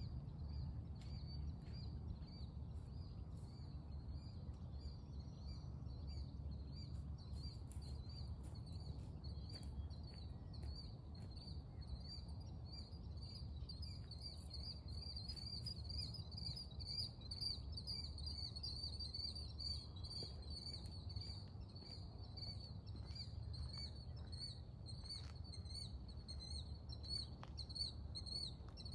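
Birds chirping in a fast, steady, repeated pattern, with a second, higher series of chirps joining about halfway through, over a low steady rumble.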